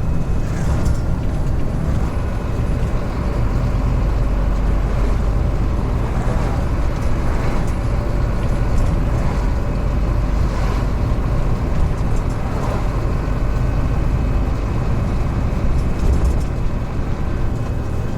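Scania truck on the move: steady diesel engine running with road rumble.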